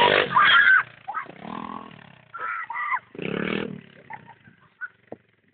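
Thumpstar 120cc pit bike's single-cylinder engine revving in several short bursts, each rising and falling in pitch, dying away near the end.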